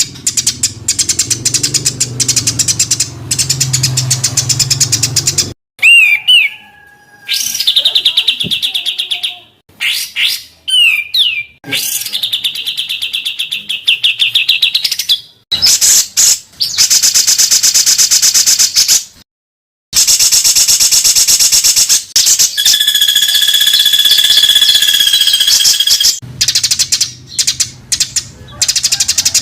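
Songbird recordings spliced one after another, made up of dense, harsh rapid-fire trills ('tembakan rapat dan kasar') used to tutor caged songbirds, with abrupt cuts and short gaps between segments. There are a few whistled glides a third of the way in, and a long steady whistle in the second half. A low hum sits under the segments at the start and near the end.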